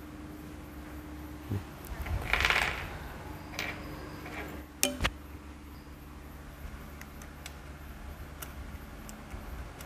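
Metal tools and small engine parts clinking and scraping as a motorcycle engine is reassembled, with a sharp ringing clink about five seconds in, over a steady low hum.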